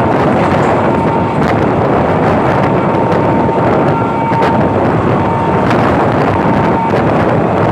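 Passenger train running at speed, heard from on board as a loud, steady rumble and rush of air. A faint steady whine and a few light clicks sound over it.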